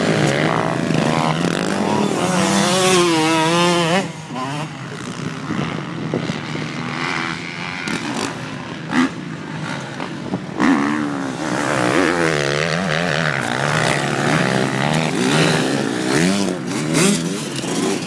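Motocross motorcycle engines revving up and down as the bikes ride a dirt track, loudest in the first few seconds, then with more than one engine heard at once.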